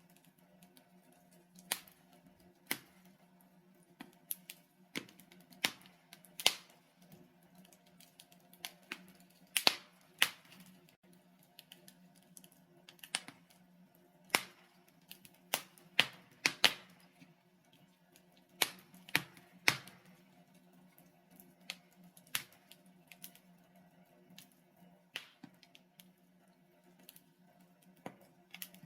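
Logs burning in a fireplace, crackling and popping: irregular sharp snaps, roughly one every second or two, some louder than others, over a faint steady low hum.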